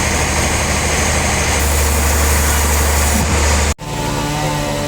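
Sawmill machinery running steadily with a strong low hum and loud hiss. It cuts off abruptly near the end and gives way to a different steady engine-like running sound with a few held tones.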